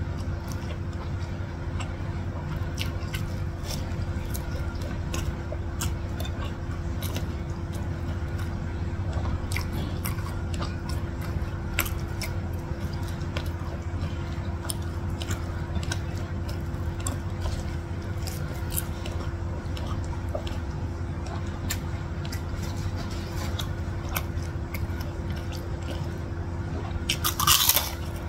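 Close-up chewing of rice and food eaten by hand, with small wet mouth clicks. Near the end comes a loud burst of crunching as a crispy kerupuk cracker is bitten. A steady low hum runs underneath.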